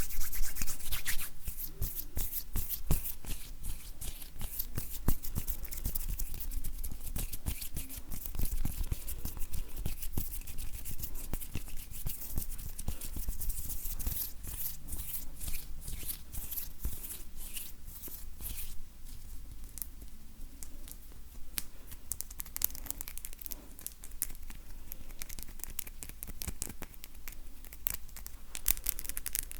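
Dry bare hands rubbing and brushing against each other close to the microphone, giving a dense, steady run of short crackling rustles and light skin-on-skin creaks.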